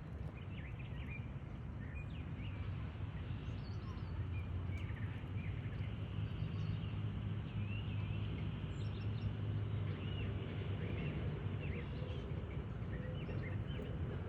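Outdoor shoreline ambience: a steady low rumble with many short chirps and calls from small birds scattered throughout.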